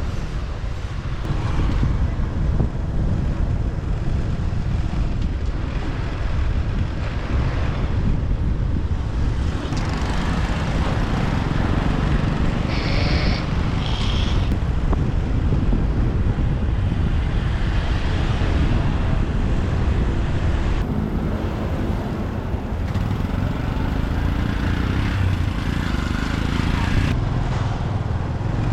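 Riding a motorbike through city traffic: steady engine and road noise, with wind buffeting the microphone. Two short high tones sound a little under halfway through.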